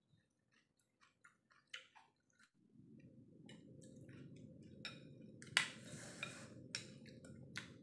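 Close-up mouth sounds of chewing cooked black-chicken feet and head: wet clicks and smacks, with a spoon clinking and scraping in the bowl in the second half. A low steady hum comes in about three seconds in.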